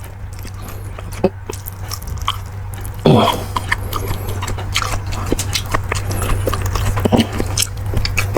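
A person eating beef bulalo close to the microphone: wet chewing and smacking with many small sharp clicks. A short voiced sound comes about three seconds in, all over a steady low hum.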